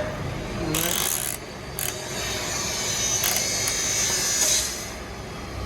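Workshop tool noise: a short rasping burst about a second in, then a longer hissing, scraping stretch that eases off near the end.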